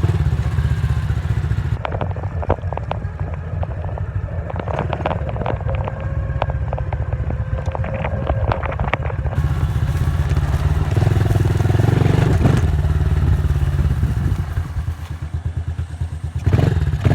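Dirt bike engine running, with rapid clicking and clattering through the middle of the stretch.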